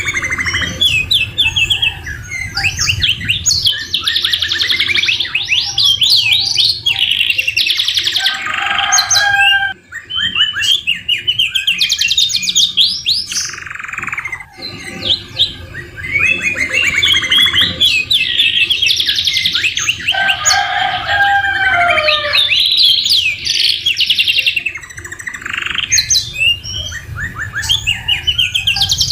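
Domestic canary singing a long, loud song of rapid trills and rolls, mixed with slower, lower slurred phrases that copy the white-rumped shama (murai batu). The song breaks off briefly twice.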